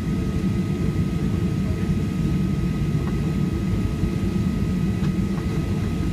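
Steady low cabin roar of a Boeing 737-800 in flight: engine and airflow noise, with a faint steady high hum on top.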